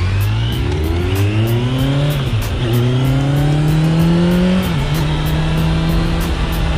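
2021 Kawasaki Z900's inline-four engine through a replica Akrapovic titanium exhaust, accelerating on the road. The engine note climbs, drops at gear changes about two and a half and just under five seconds in, then holds steady.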